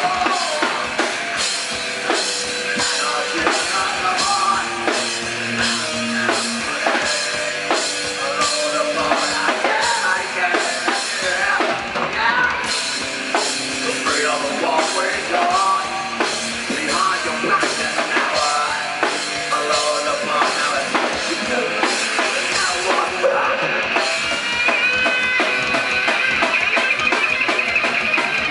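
Live rock band playing, with a steady drum-kit beat under the instruments.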